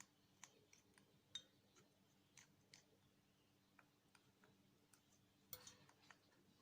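Faint, irregular clicks and small crunches, typical of an African grey parrot nibbling and shredding neem leaves with its beak, with a short cluster of clicks near the end.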